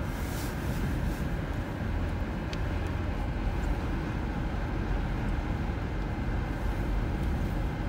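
Blizzard wind gusts of about 70 mph blowing against a car and rocking it, heard from inside as a steady low rumble with a rushing hiss above it.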